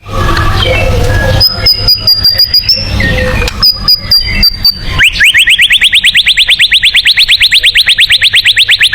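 White-rumped shama (murai batu) singing. A jumble of chirps gives way to clicking rattles under a thin high note. About five seconds in comes a fast run of rising whistled notes, about ten a second: the rapid-fire 'trotolan' phrase prized in contest birds.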